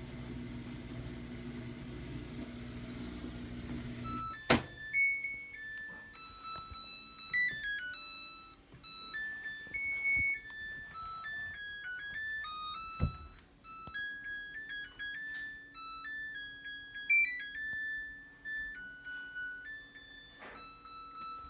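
Samsung washing machine humming steadily, then a sharp click about four seconds in, and the machine's electronic end-of-cycle tune of beeping notes plays, signalling that the tub clean cycle has finished. A second click sounds partway through the tune.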